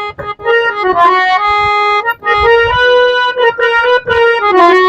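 A reedy keyboard instrument, harmonium-like, playing the melody of a devotional bhajan on its own: a quick run of short notes, then longer held notes, with a short dip in pitch near the end.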